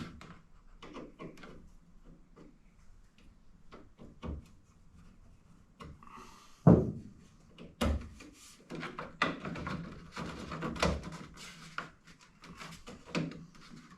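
Hand-fitting of interior trim molding: scattered clicks, knocks and rubbing as the piece is worked into place, with a sharp knock about seven seconds in and a busy stretch of clattering after.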